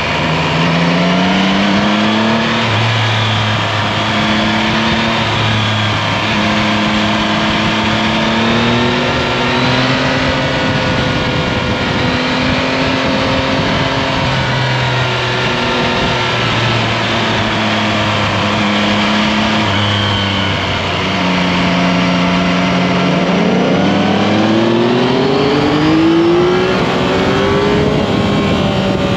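Yamaha Tracer 9 GT's 890 cc inline three-cylinder engine pulling through the gears, its pitch rising under acceleration and dropping back at each shift or roll-off, with a longer, stronger pull about three-quarters of the way through. Constant wind and road noise runs underneath.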